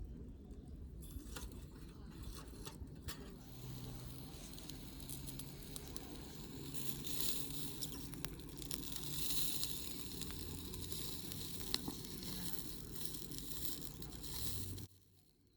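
Small campfire cook-fire crackling and popping, with a hissing sizzle that builds a few seconds in and stops abruptly near the end.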